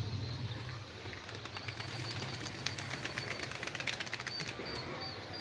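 A small bird chirping in quick repeated high notes over a steady low hum, with a run of light clicks and rustles in the middle.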